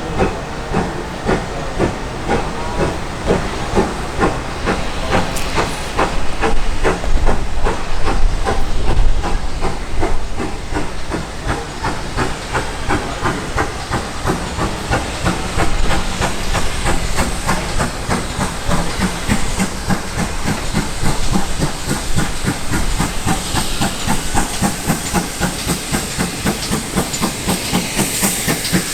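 GWR 2800-class 2-8-0 heavy goods steam locomotive working under steam, with a steady chuffing exhaust beat and steam hiss. The beats start well apart and quicken as the engine gathers speed.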